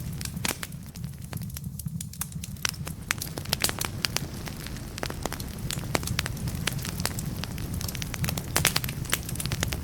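Wood fire in a fireplace crackling, with irregular sharp pops and snaps from the burning logs over a steady low rumble of the flames.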